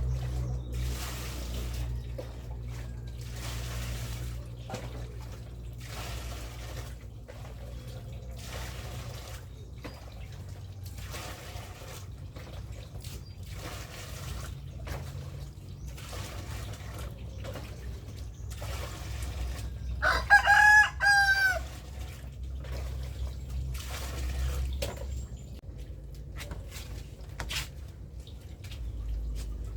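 A rooster crows once, loud and bending in pitch, about twenty seconds in. Underneath run a steady low hum and soft swishing strokes about once a second.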